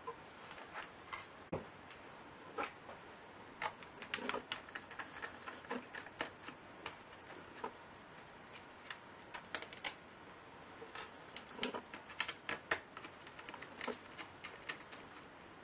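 Light, irregular clicks and taps of a laptop's small plastic and metal parts being handled during disassembly, coming in loose clusters with short pauses between.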